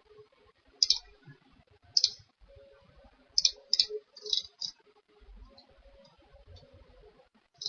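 Computer mouse clicking: several single sharp clicks at irregular intervals, a few of them close together around the middle.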